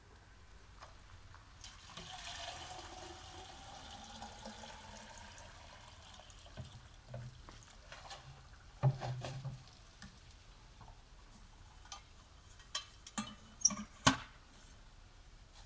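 Liquid being poured into a container for a few seconds, with a tone that rises slowly as it pours, followed later by a few sharp knocks and clatters.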